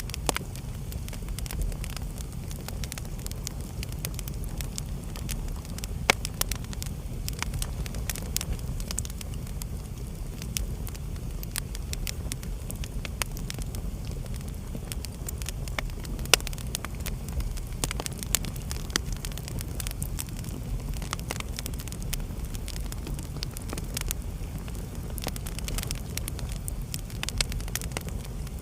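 Wood fire burning in a fireplace: a steady low rumble of flames with constant small crackles and a few sharper pops.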